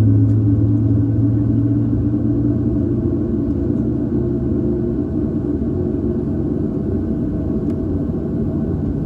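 Steady low rumble and hum inside the cabin of a Boeing 737-800 on the ground, its deep hum fading over the first few seconds and the whole sound slowly growing quieter.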